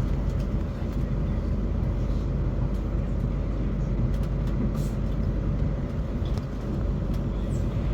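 A Class 450 electric multiple unit running along the line, heard from inside the carriage: a steady low rumble with a few short sharp clicks scattered through it.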